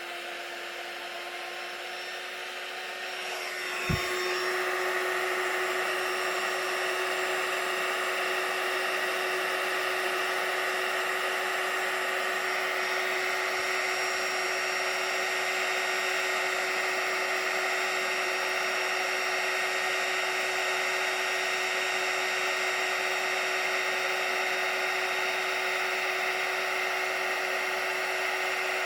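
Embossing heat tool blowing steadily with a motor hum as it melts clear embossing powder into a shiny raised finish. About four seconds in there is a click, and it runs louder from then on.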